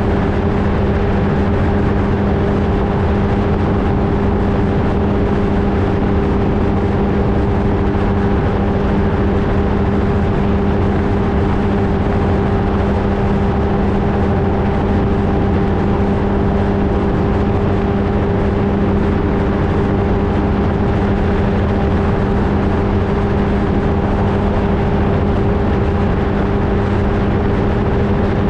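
Flightstar II ultralight's engine and propeller running steadily at constant power, a loud, even drone with no change in pitch.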